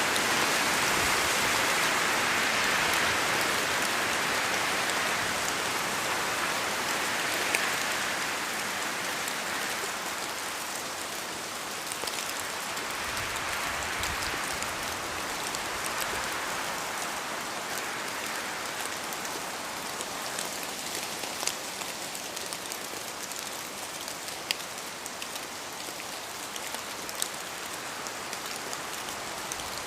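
Steady rain falling in a forest, a continuous wash that is louder for the first several seconds and then eases a little. Scattered sharp drop ticks stand out more in the second half.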